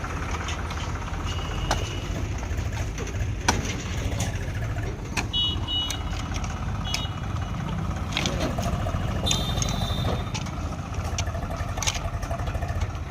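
Heavy diesel machinery at a mud-loading job, a backhoe loader and tractor, running steadily, with scattered sharp knocks. A few short high-pitched beeps come in around the middle.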